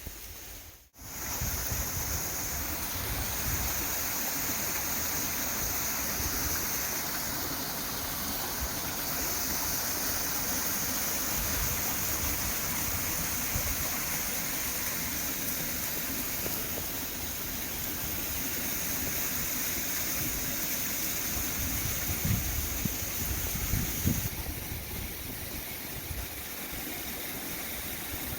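Steady rushing water, like surf on a shore or a fast stream, running as an even hiss and rumble. The sound drops out briefly about a second in. There are a few low bumps a few seconds before the end, and the high hiss changes just after them.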